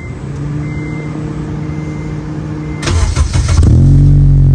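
Honda Civic Si's four-cylinder engine being started through a freshly fitted J2 Engineering cat-back exhaust: a steady hum, then a brief crank about three seconds in as the engine fires, settling into a loud, steady idle.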